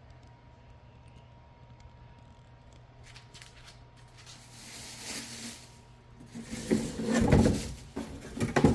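Handling noise: rustling, scraping and knocking of something being moved close to the microphone. It starts faint about halfway in and grows loud near the end.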